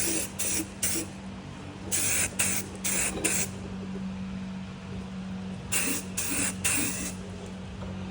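Aerosol can of Rust-Oleum undercoating sprayed in short hissing bursts, three or four at a time in three groups, with a steady low hum underneath.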